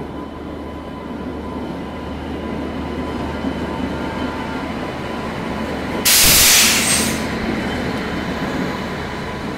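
Indian Railways express train rolling slowly past along the platform as it arrives: a steady low rumble of the electric locomotive and coaches. About six seconds in there is a loud burst of hissing air lasting about a second.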